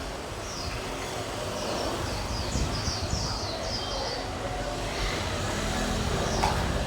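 Small birds chirping in quick falling notes over a low, steady rumble like distant traffic.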